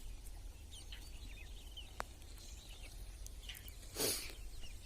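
Birds chirping and calling in short, scattered notes, with a single sharp click about two seconds in and a brief burst of hiss about four seconds in.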